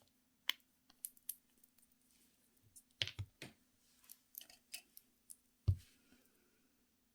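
Irregular small clicks and taps from handling nail tools and products on a tabletop, with a louder knock a little before the end.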